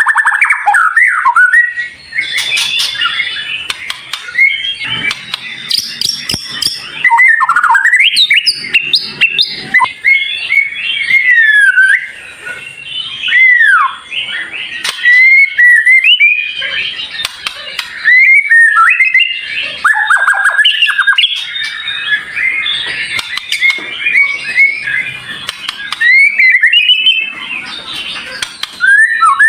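White-rumped shama (murai batu) song: fast, varied phrases of sharp, high whistles, chirps and rapid chatters, rising and falling in pitch, packed densely with only brief pauses.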